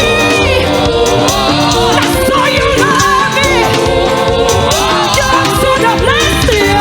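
Gospel choir singing with band accompaniment, sustained voices over a steady drum beat.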